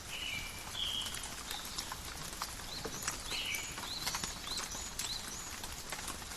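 Calm forest rain: a steady hiss with drops pattering and dripping in irregular clicks. Birds call over it with many short high chirps and a couple of buzzy notes, one near the start and one about halfway through.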